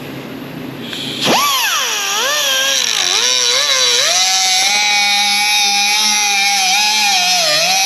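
A high-pitched power tool starting up abruptly about a second in. Its whine swings up and down in pitch for a few seconds as it meets the sheet metal, then runs fairly steadily.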